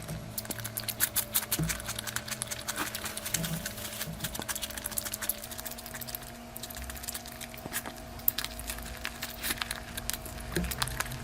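Close-up eating sounds: chewing and mouth clicks in a rapid, irregular stream, over a faint steady hum.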